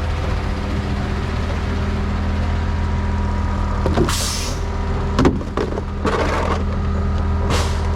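Heavy diesel engine running steadily, with four short hisses of released air in the second half.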